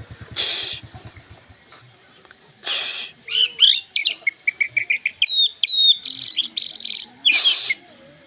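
Wild birds calling and singing: varied chirps, a quick run of short notes and whistled notes gliding downward, broken three times by a harsh hissing burst.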